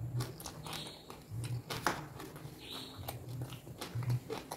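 Close-miked mouth chewing and biting of raw lalapan such as jengkol and petai, with wet clicks and crunches.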